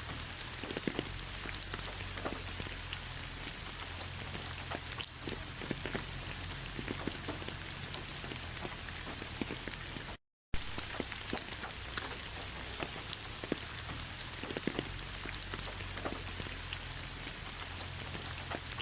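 Steady autumn rain pattering on fallen leaves, individual drops ticking irregularly over a constant hiss. The sound drops out to total silence for a fraction of a second about ten seconds in.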